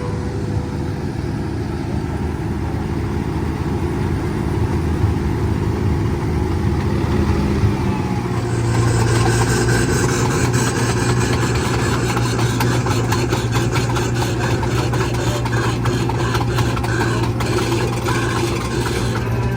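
Casey Jr. Circus Train running along its track: a steady engine drone that grows louder and fuller about eight seconds in, with many small clicks and rattles from then on.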